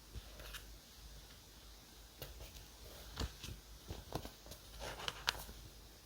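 Diary-decorating stationery handling: scattered light clicks, taps and short paper rustles, with the sharpest click about five seconds in.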